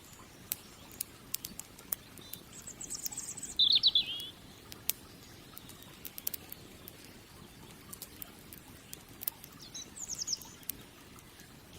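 Wood fire crackling with scattered sharp pops over a low steady hiss. A small bird calls twice with high, rapid trills: the loudest, a warbled trill, comes about four seconds in, and a shorter one near the end.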